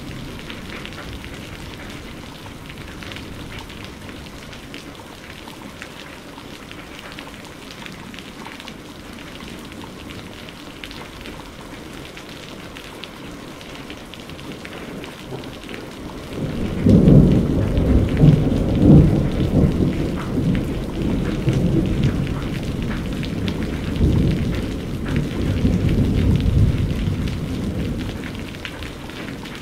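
Steady rain falling, with a low rolling thunder rumble that breaks in suddenly a little past halfway, swells a few times and fades out near the end.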